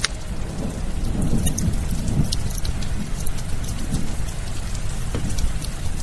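Burning firewood crackling and popping in sharp, scattered snaps over a steady wash of rain, with a continuous low rumble underneath.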